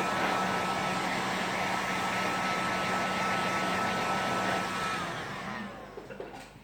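Heat gun blowing hot air steadily, with a low hum and a thin whine over the rush of air; about five seconds in it is switched off and its fan winds down to quiet.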